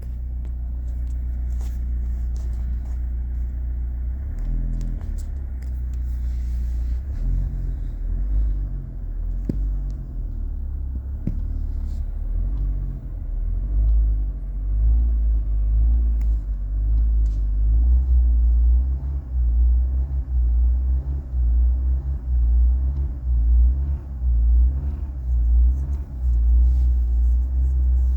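Car engine idling with a low rumble, then revved in quick repeated blips, about one a second, from about a quarter of the way in.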